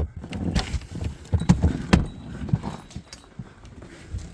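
A string of irregular knocks and soft thuds, the sharpest two about halfway through.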